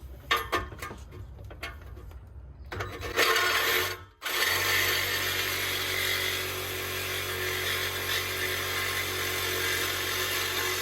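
Cordless reciprocating saw (Sawzall) with a metal-cutting blade cutting through an exhaust pipe. A few knocks come first, then a short burst of the saw about three seconds in and a brief stop. From about four seconds on it cuts steadily.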